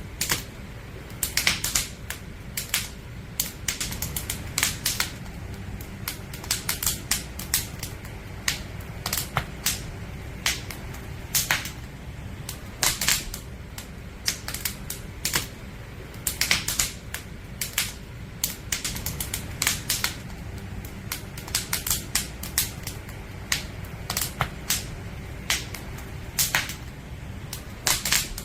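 Firewood crackling in a campfire: irregular sharp snaps and pops, some in quick clusters, over a steady low rumble.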